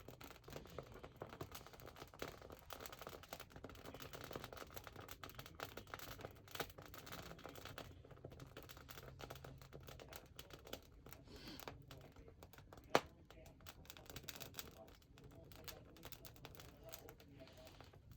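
Freshly lit wood fire crackling faintly: a dense scatter of small ticks and snaps, with one sharp, louder pop about 13 seconds in.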